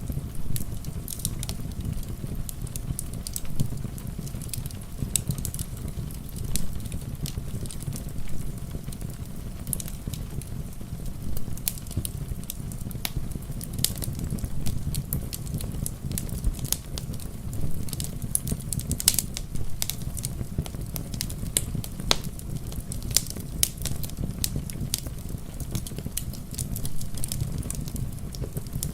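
Fireplace fire crackling, with irregular sharp pops scattered several times a second over a steady low rush, together with steady rain.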